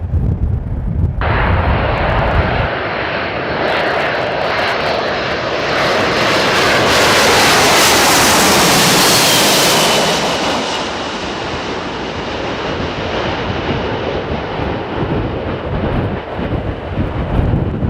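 Jet airliner flying low past. Its engine noise comes in suddenly about a second in, swells to a peak about halfway through with a faint whine, then fades away. Wind rumbles on the microphone at the start and end.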